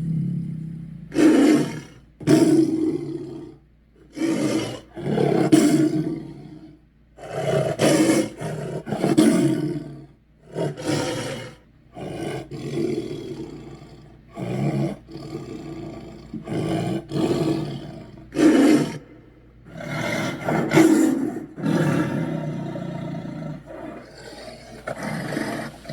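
Monster roar and growl sound effects for the demon Chernabog: about twenty short, separate roars, each under two seconds, with brief pauses between them.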